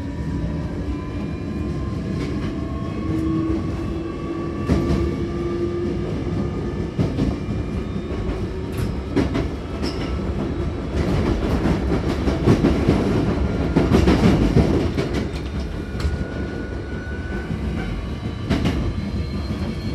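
Hankyu Kyoto Line electric train running and gathering speed: traction-motor whine rising slowly in pitch over a steady rumble, with wheels knocking over rail joints and points, loudest for a few seconds in the middle.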